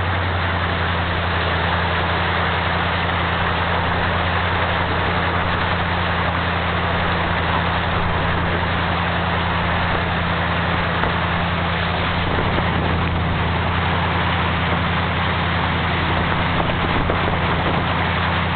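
Vehicle engine running at a steady, even pitch, with a constant hiss over it, heard from inside the vehicle as it moves through floodwater.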